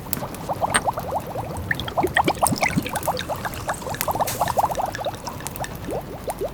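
A pot of food simmering, small bubbles popping quickly one after another, with a few faint crackles.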